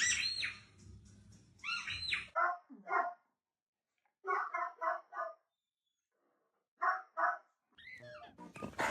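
Short bark-like animal calls in groups of two to four, with dead silence between the groups. Higher, falling squawk-like calls come at the start and around two seconds in, and a louder burst of calls near the end.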